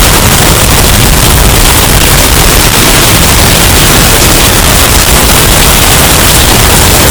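Hurricane storm sound effect, bass-boosted and overdriven until it clips: a very loud, unbroken wall of wind noise with heavy distorted bass and crackle, steady throughout.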